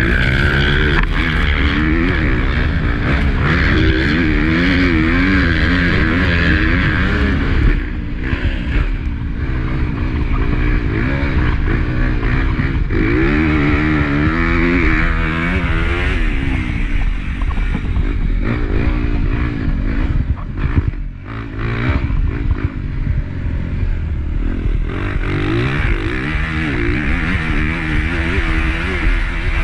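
Honda CRF250 motocross bike's four-stroke single-cylinder engine revving up and falling back again and again under hard throttle during a race. About two-thirds of the way through the engine drops off briefly, then picks up again.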